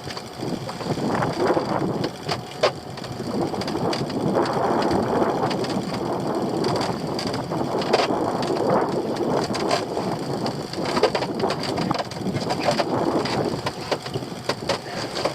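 Lobster pot being hauled aboard a small fishing boat: rough rustling and scraping with scattered sharp knocks and clatters, over wind and sea noise.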